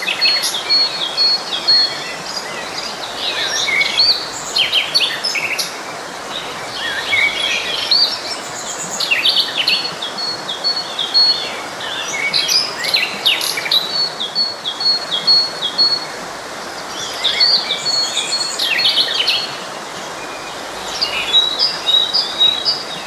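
Several songbirds chirping and singing over one another. One repeats a rapid run of short, even high notes every few seconds. Beneath them runs the steady rush of a flowing forest stream.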